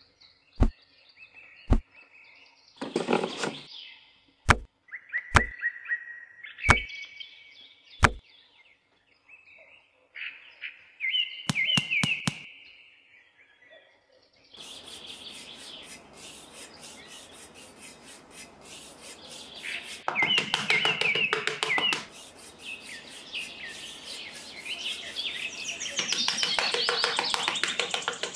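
Small birds chirping in short, pitch-gliding calls. In the first half these come with sharp single clicks. From about halfway through, a steady rough scraping noise with rapid ticking runs underneath.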